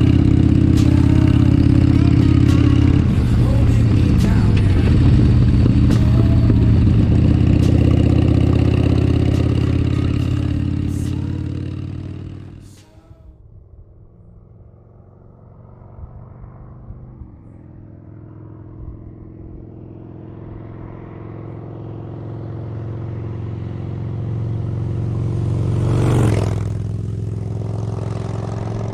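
Harley-Davidson Sportster bobber's air-cooled V-twin engine running loud and steady under way. About 13 seconds in the sound cuts off suddenly to a much quieter engine sound, which grows steadily louder, peaks sharply about 26 seconds in, then settles.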